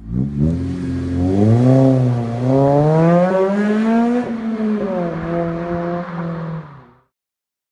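Honda Civic Type R FD2's K20A four-cylinder engine, through an aftermarket exhaust, accelerating hard: its pitch climbs, dips briefly about two seconds in, climbs again to a high peak about four seconds in, then drops at an upshift and holds lower. The sound cuts off abruptly about seven seconds in.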